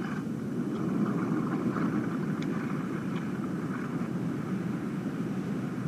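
Recorded wind blowing, a steady, soft rushing sound without gusts or pauses: a gentle, monotonous, warm-sounding wind.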